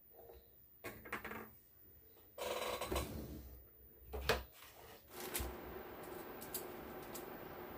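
Small clicks and clatters of hand work on a circuit board, with one sharp click about four seconds in; a steady faint hum with hiss sets in about five seconds in.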